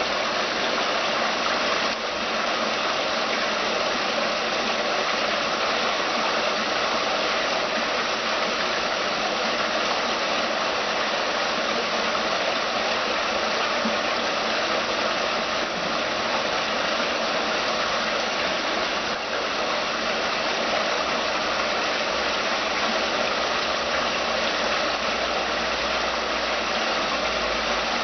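Water running steadily down a stepped stainless-steel cascade fountain: an even, unbroken splashing rush.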